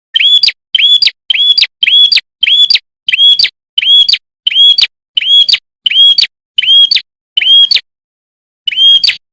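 A prenjak kepala merah, a small Indonesian songbird, giving a loud, sharp chirping call: the same short hooked whistle repeated about twice a second, with a pause of about a second near the end.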